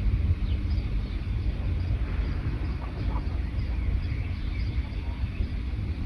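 Forest songbirds chirping with scattered short, high calls over a steady low rumble that is louder than the birds.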